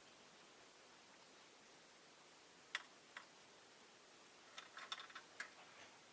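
Small sharp clicks over a faint steady hiss: two single clicks about halfway through, then a quick flurry of short ticks near the end, the small sounds of a rosy-faced lovebird moving about and pecking.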